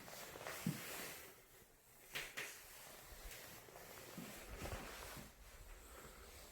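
Faint footsteps and scuffs, with two sharp clicks a little over two seconds in.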